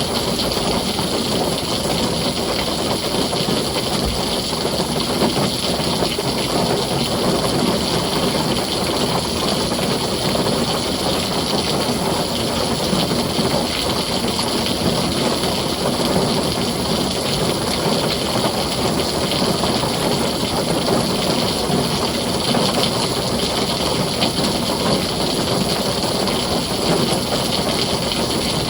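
Heavy rain falling steadily on a tin roof: an even, unbroken wash of noise with no separate thunderclap.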